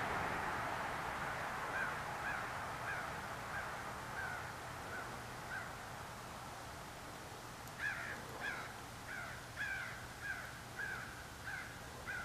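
A bird calling in a string of short repeated calls, about one every two-thirds of a second: a fainter run early on, then a louder run of about eight calls from about eight seconds in. A steady rushing noise fades away over the first few seconds.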